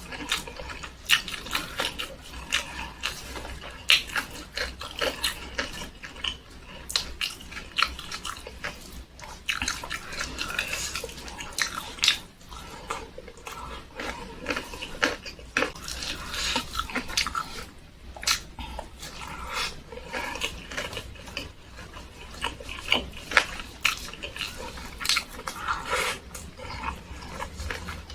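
Close-miked eating sounds: a person chewing, with wet smacking and clicking of the mouth and lips in quick, irregular bursts.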